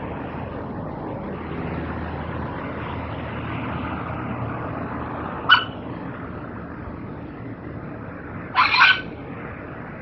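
Red wattlebird giving two short calls: a brief one about five and a half seconds in and a longer, louder one near the nine-second mark. Steady background noise underneath.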